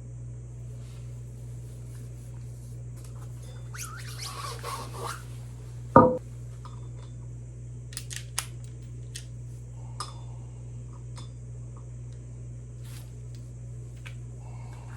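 Metal tools and parts being handled during motorcycle wheel work: a brief scrape, then one loud clank with a short ring about six seconds in, and a few light taps and clicks, over a steady low hum.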